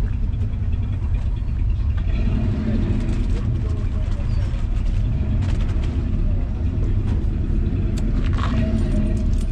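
Steady low rumble of car engines running, with faint voices in the background.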